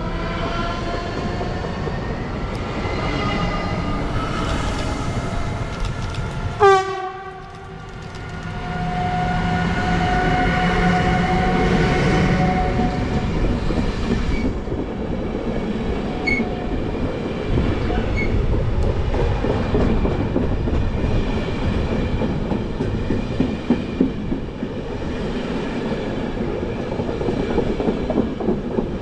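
Train passing on the line, its wheels rumbling and clattering on the rails. In the first few seconds there is a slowly rising whine, and a steady tone is held for a few seconds near the middle.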